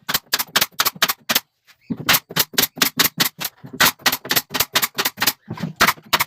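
Pin nailer firing pins into pallet-wood slats in a rapid series of sharp shots, about four to five a second, with a brief pause about a second and a half in.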